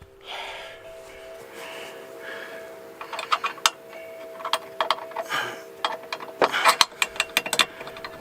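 Clicks and clanks of hand tools and metal hardware being handled, coming in quick irregular bunches that get busier in the second half, over a faint steady hum.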